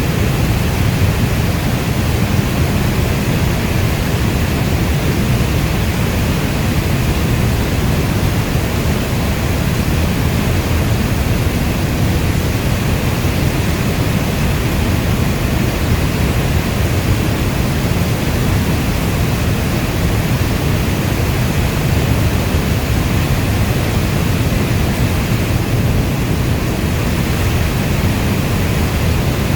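Steady heavy rainfall, a dense, even rushing hiss weighted toward the deep end, with no thunder and no single drops standing out.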